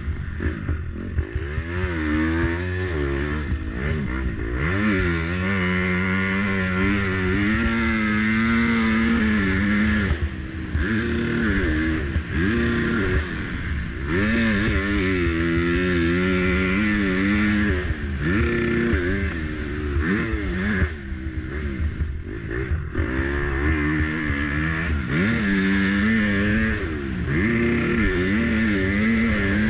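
Motocross dirt bike engine revving hard and backing off again and again, its pitch climbing and dropping every second or two.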